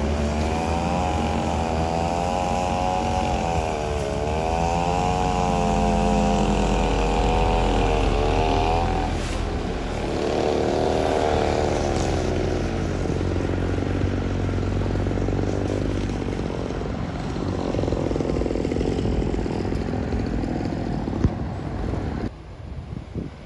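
Heavily loaded sugarcane truck's engine labouring up a steep incline, its pitch wavering up and down as it pulls. The sound changes about nine seconds in and drops away suddenly near the end.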